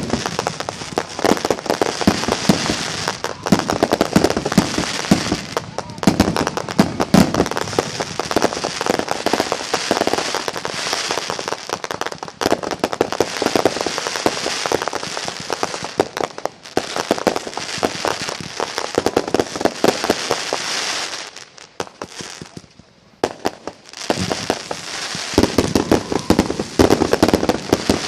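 Aerial fireworks in a dense, near-continuous barrage of rapid bangs and crackling. There is a short lull about three-quarters of the way through before the bangs start again.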